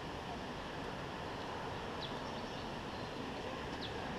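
Steady outdoor background noise, a low rumble with hiss, with two short high chirps about two seconds apart.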